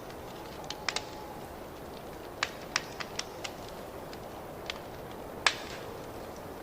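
Wood fire crackling in a fireplace: a steady low hiss with irregular sharp pops, about ten of them, the loudest a little past halfway.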